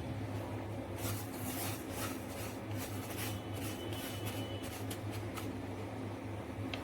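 Sesame seeds dry-roasting in a pan, with a quick run of scratchy, crackling clicks from about a second in until about five and a half seconds, as they are stirred and start to pop. A steady low hum runs underneath.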